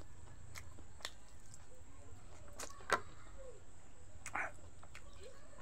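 Close-up mouth sounds of someone chewing a mouthful of rice and beef curry: scattered wet clicks and smacks, the sharpest about three seconds in, over a steady low hum.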